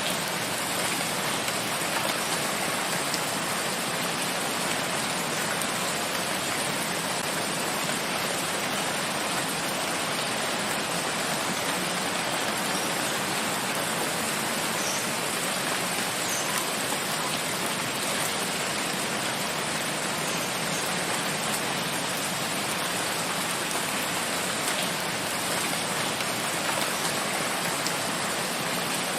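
Steady, unbroken rain falling in a forest, an even hiss of many drops on leaves and ground.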